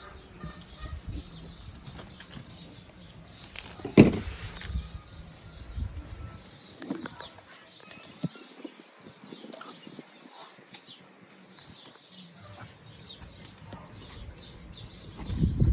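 Small birds chirping: a run of short, high, falling chirps, about two a second, through the second half. A single sharp knock about four seconds in.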